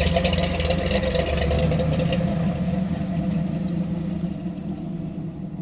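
Off-road competition truck's engine running steadily under load, its sound slowly fading toward the end.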